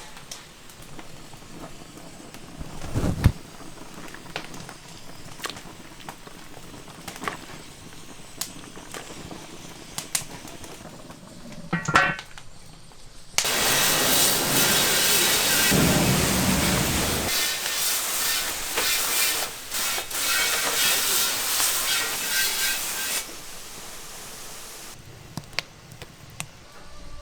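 Scattered light clicks and knocks, then a loud hiss that starts suddenly about halfway through and lasts around ten seconds before dropping to a softer hiss and dying away.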